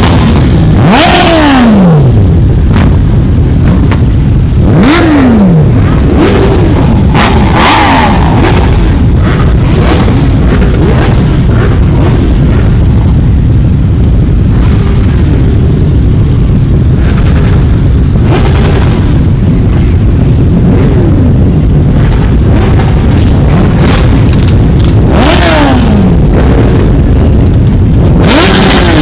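A continuous stream of motorcycles riding past, engines loud and unbroken. Individual bikes pass with a falling pitch several times: about a second in, around five and eight seconds in, and twice near the end.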